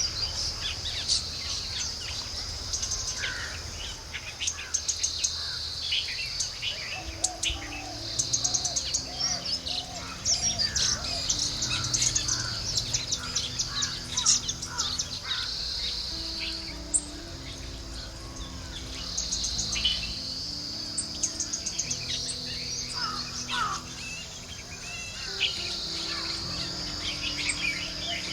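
Several wild birds chirping and calling at a small drinking pool, short calls coming thick and fast, over a high, shrill insect trill that starts and stops in bouts every few seconds.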